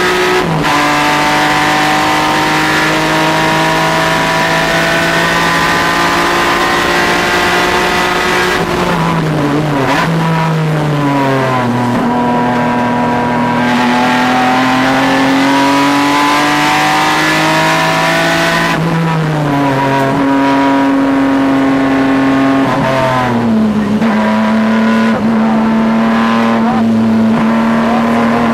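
A car engine driven hard on a race track. It shifts up about half a second in, then twice falls in pitch in steps as the driver lifts off, and each time climbs back up steadily under acceleration.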